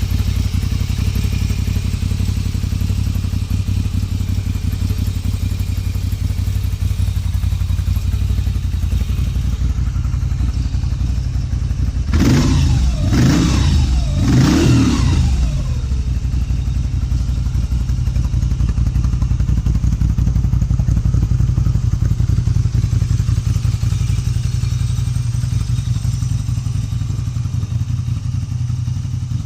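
Moto Guzzi V7 Special's air-cooled transverse V-twin, breathing through aftermarket Agostini silencers, idling with a steady low beat. Partway through, the throttle is blipped three times in quick succession, each rev rising and falling back to idle.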